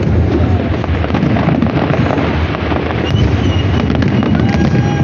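Fireworks salute going off in a dense, continuous barrage: a steady rumble of bursts with crackling over it.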